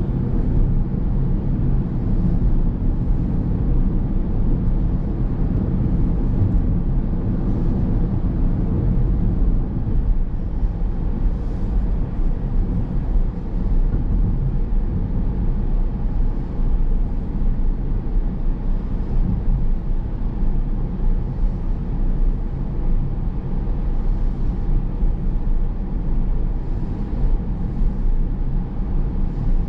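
A car in motion, its road and engine noise making a steady low rumble with no sudden changes.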